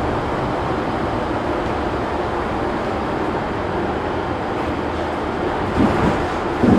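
Steady engine and road noise inside a moving city bus, with two short knocks near the end.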